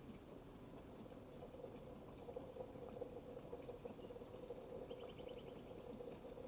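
Faint rain pattering steadily, with a bird giving a short, rapid trill of repeated high notes about five seconds in.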